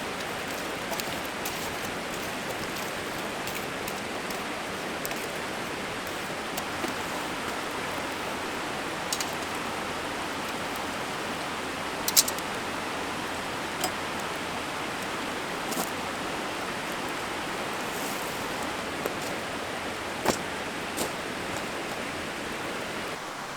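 Mountain stream flowing steadily, with a few scattered sharp clicks, the clearest a double click about halfway through.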